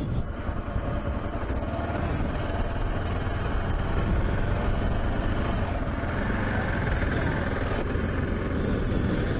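Motorcycle on the move: steady engine running mixed with wind noise.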